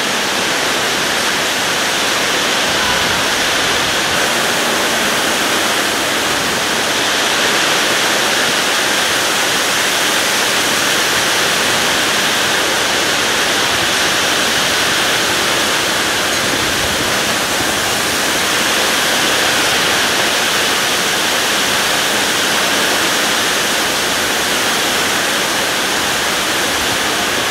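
Torrential thunderstorm downpour: a dense, steady hiss of heavy rain that swells slightly a couple of times.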